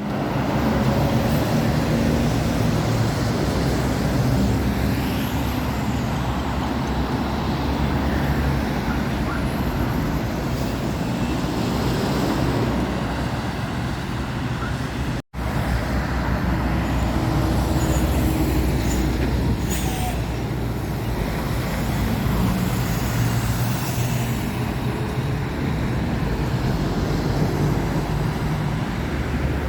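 Heavy lorries and other traffic passing close by on a main road: a steady low diesel engine drone and tyre noise. The sound cuts out for an instant about halfway through.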